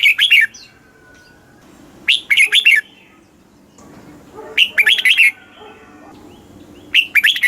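Red-whiskered bulbul singing: short bright phrases of several quick notes, repeated about every two and a half seconds.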